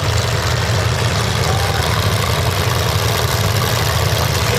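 Engines of demolition derby cars running, a loud steady rumble with no crashes or sharp impacts.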